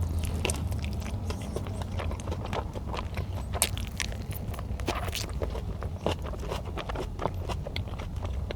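Someone chewing a chicken wrap close to the microphone: irregular small clicks and mouth noises over a steady low hum.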